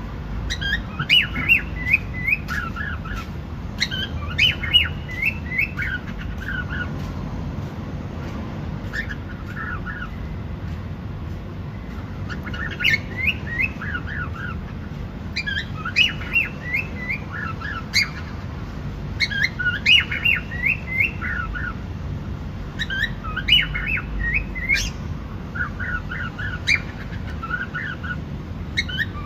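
Cockatiel chirping in groups of quick, falling chirps, a group every few seconds, over a steady low background rumble.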